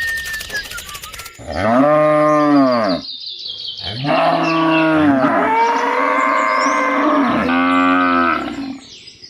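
Cattle mooing: several long moos in a row, each rising and then falling in pitch, with short breaks between them.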